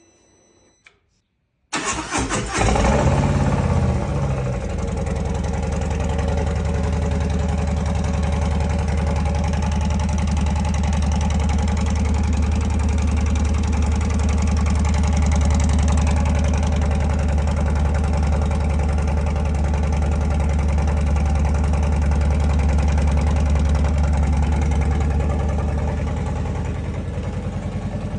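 Harley-Davidson Low Rider S's Milwaukee-Eight 117 V-twin cold-started through Tab Performance slip-on mufflers with baffles: after a couple of seconds of quiet the starter turns it over and it catches at once with a brief flare, then settles into a steady fast idle. Near the end the idle drops a little lower.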